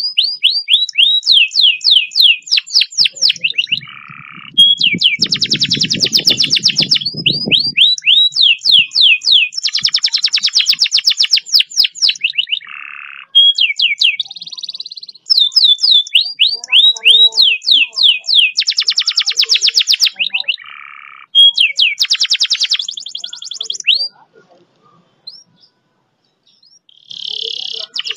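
Domestic canary singing long, fast rolls: rapid runs of repeated high notes and sweeping trills, linked by short breaks. A low rumble sounds beneath the song from about five to eight seconds in. The song mostly stops about 24 seconds in, and a short phrase returns near the end.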